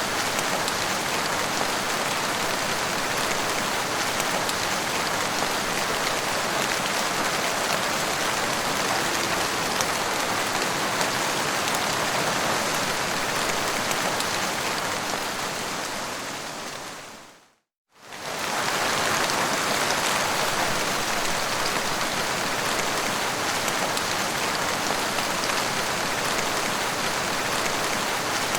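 Steady rainfall, an even hiss of rain falling on surfaces. About two-thirds of the way through it fades out to a moment of silence and fades straight back in.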